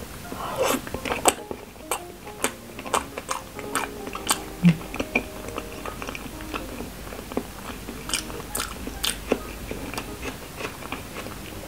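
A person chewing a mouthful of balut close to the microphone, mouth closed: wet smacks and clicks at irregular intervals.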